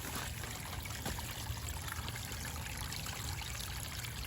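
Water trickling and splashing steadily in a small backyard landscaping stream and pond.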